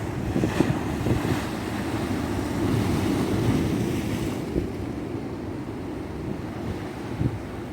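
Ocean surf washing onto a beach, with a low rumble of wind on the microphone; a wave swells during the first few seconds and then eases off.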